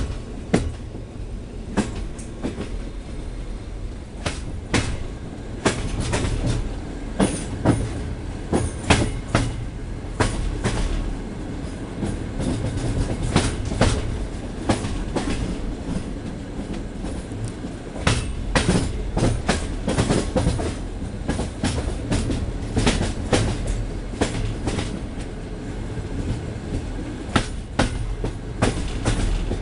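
TLK Szczecinianin passenger train running on the line through Poznań Franowo. Under a steady low rumble, the wheels knock sharply and irregularly on the track. The uploader takes these knocks as the sound of track in poor technical condition.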